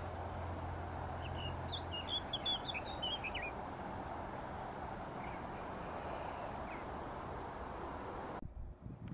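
A small bird chirping a quick run of short high notes about two seconds in, with a few fainter chirps later, over a steady open-air hiss. The background cuts off abruptly near the end.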